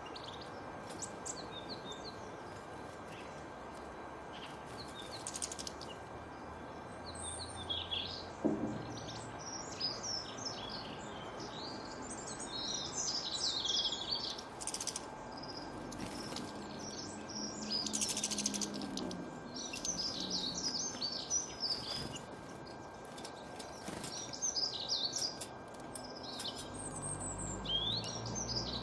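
Small birds chirping and twittering in many short, overlapping calls, busiest in the middle and again near the end, over a steady background hiss.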